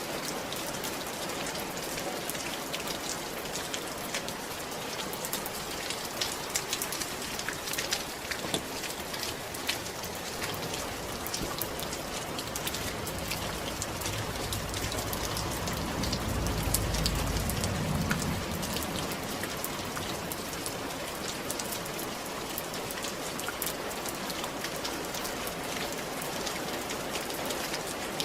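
Steady rain falling on a roof, with individual drops ticking sharply through it. A low rumble swells up about halfway through and fades again a few seconds later.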